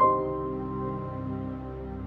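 Soft, slow background music: a chord struck right at the start rings on and slowly fades away.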